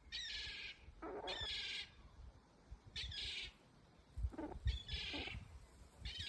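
High-pitched bird calls, about five in a row, each about half a second long and starting with a quick pitch swoop.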